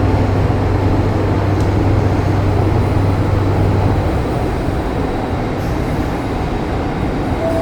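MTR Kwun Tong Line M-Train running on the track: a steady rumble of rolling and car noise, with a low hum that stops about four seconds in. The first note of a falling chime starts right at the end.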